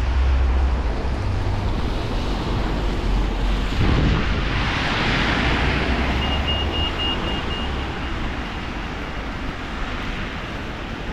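Heavy rain hissing, with wind buffeting the microphone in a low rumble. The hiss swells for a couple of seconds about halfway through, and a brief run of high beeps sounds just after.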